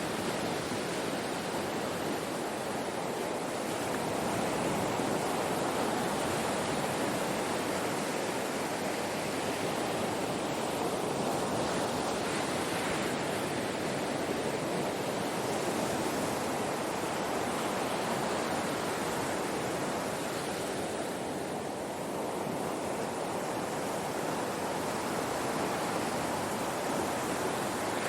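Ocean waves breaking on a shore: a continuous wash of surf that swells and eases slowly.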